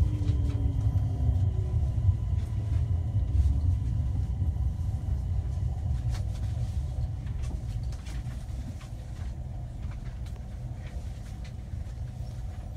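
Low rumble of a passenger train rolling slowly into the station and easing to a stop, fading over the first eight seconds. A falling whine dies away about a second in, with a few faint clicks.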